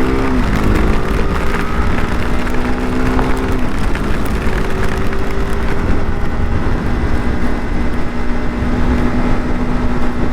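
Motorcycle engine running while riding, under a loud, steady rushing noise. Its note falls at the start and then holds steady.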